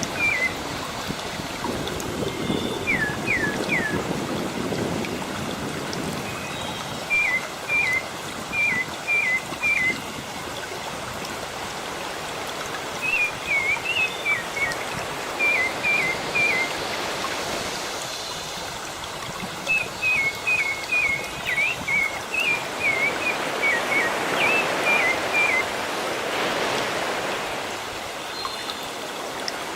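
Sea surf washing steadily, swelling near the start and again near the end, with small birds giving short high chirps in quick runs of two to five notes throughout.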